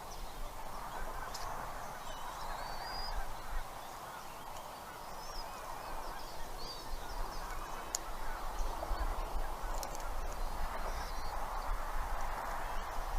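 Outdoor bird chorus: a dense, continuous mass of many small calls, with thin whistled songbird phrases rising and falling above it.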